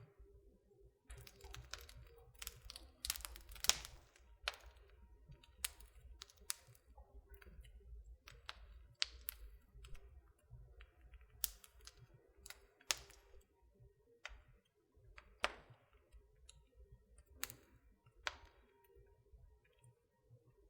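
Wood fire crackling in a fireplace: irregular sharp pops and snaps, a quick cluster a couple of seconds in, then single pops every second or two, over a faint low rumble.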